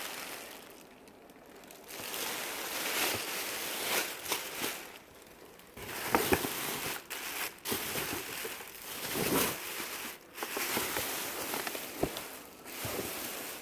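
Dresses being handled and moved about: an uneven rustling and crinkling of fabric and packaging that comes and goes, with a few short knocks.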